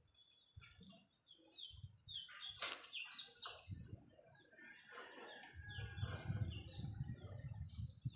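Birds chirping: a rapid series of short, quick downward chirps, with a low rumbling noise under them in the later seconds.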